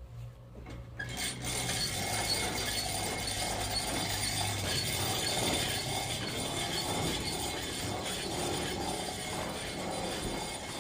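Sawmill machinery running: a low steady motor hum, joined about a second in by a dense, continuous mechanical rattle.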